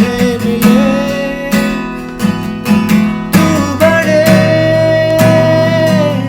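Strummed acoustic guitar accompanying a man singing a Hindi worship song, the voice holding one long note in the last couple of seconds.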